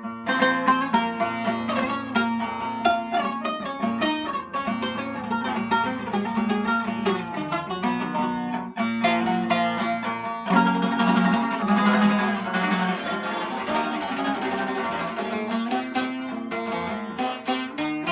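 Bağlama, the Turkish long-necked saz, played in a fast improvisation: rapid plucked notes over sustained lower strings.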